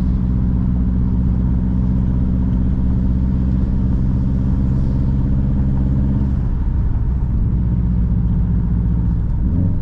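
Car engine running steadily under way, heard from inside the car, with a low even drone. Its pitch shifts briefly about two-thirds of the way through, then steadies again.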